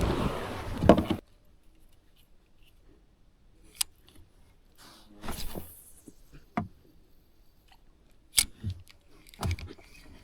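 A loud rushing noise for about a second that cuts off suddenly, then mostly quiet with a few separate sharp clicks and soft knocks.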